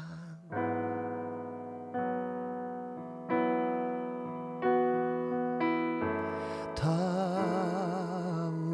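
Electric piano playing a slow worship-song accompaniment: six chords struck about every second and a quarter, each left to fade. A singing voice with vibrato comes back in near the end.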